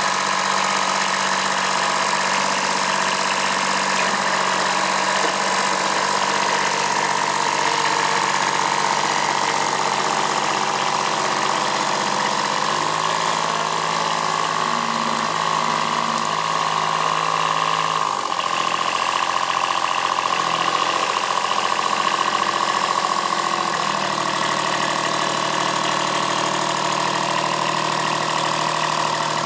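Kubota B7001 tractor's D850 three-cylinder diesel running steadily during a stump pull, with a steady whine over the engine note. The engine note changes about 13 seconds in, dips briefly around 18 seconds, and shifts again around 24 seconds.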